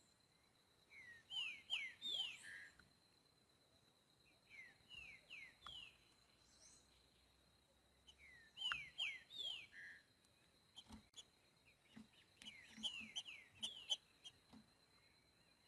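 Green-winged saltator (trinca-ferro) singing in the boiadeiro song type: four phrases of quick downslurred whistled notes, a few seconds apart. A faint steady high tone runs underneath, and a few soft knocks come in the second half.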